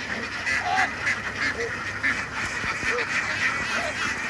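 A large flock of domestic ducks calling constantly, many quacks overlapping into a dense chatter.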